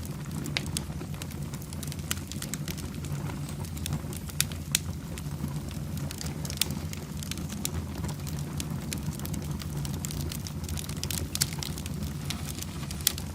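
Wood fire burning in a fireplace, crackling and popping at irregular moments over a steady low rumble of the flames.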